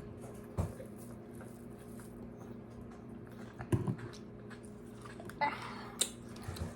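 Fresh strawberries being bitten and chewed, heard as a few scattered sharp mouth clicks and smacks over a steady low hum.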